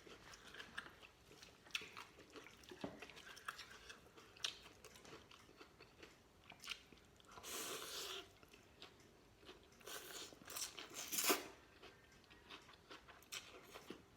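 A person eating noodle soup with vegetables close to the microphone: quiet chewing and crunching with scattered small clicks, and a louder, longer noisy stretch about halfway through.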